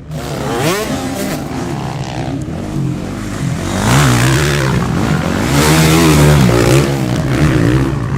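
Motocross bikes racing, their engines revving up and down, with the pitch rising and falling over and over as several bikes overlap. It gets louder from about four seconds in.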